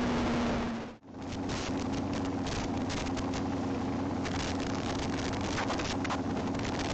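Steady rushing vehicle noise with a faint low hum underneath, cutting out abruptly for a moment about a second in and then carrying on unchanged.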